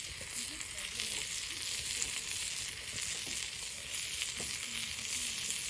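Food sizzling on a barbecue grill: a steady, hissing fry with fine scattered crackles.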